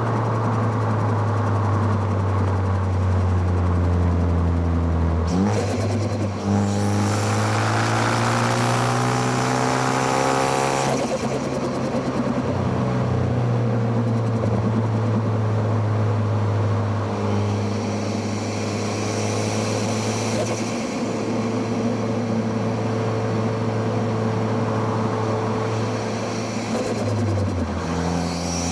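Car engine heard close at its intake and exhaust while driving: it drops a gear about five seconds in and revs up hard with a rushing intake sound. It lets off about eleven seconds in, then cruises with its pitch slowly falling, and changes gear again near the end.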